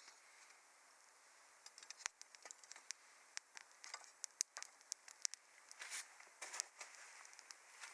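Wood fire crackling: irregular sharp pops and snaps over a faint hiss, sparse at first and coming thick and fast from about two seconds in.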